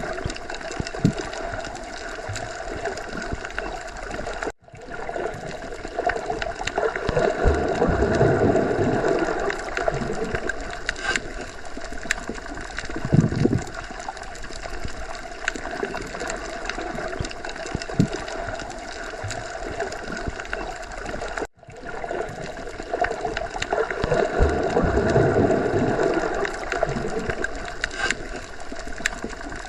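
Underwater sea ambience: a steady, muffled wash of water with louder swells that rise and fall. The sound cuts out for an instant twice, about 17 seconds apart, where the recording loops.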